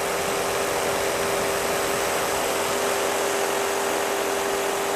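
Electric fan heater's blower running steadily at its 2000-watt setting: an even rush of air with a constant low motor whine.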